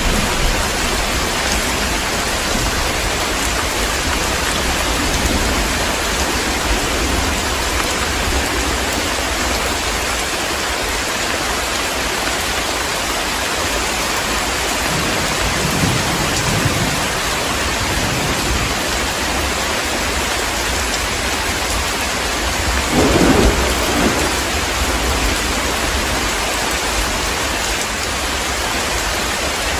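Heavy rain falling steadily in a thunderstorm, with low thunder rumbling about halfway through and a louder roll of thunder a little over two thirds of the way in.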